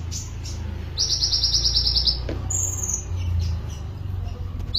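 Songbird singing: a rapid, even trill lasting about a second, then a short higher note, over a steady low hum.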